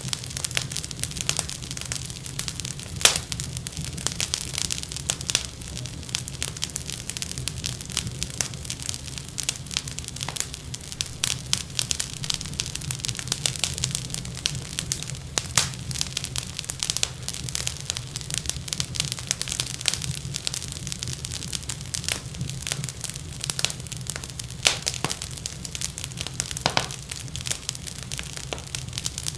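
Wood fire crackling in a fireplace: a steady low rumble of flames with constant sharp snaps and pops, a few louder pops scattered through.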